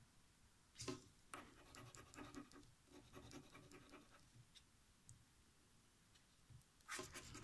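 Faint scratching of a scratch-off lottery card, in short irregular strokes with a brief pause, then a slightly louder scrape near the end.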